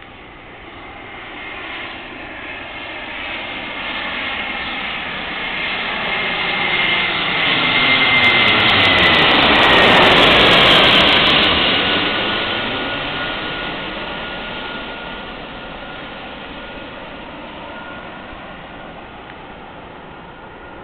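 Airbus A320-200 airliner passing close by on landing approach: the twin jet engines' rumble and high fan whine grow louder, peak about ten seconds in, then fade, the whine dropping in pitch as the aircraft goes past.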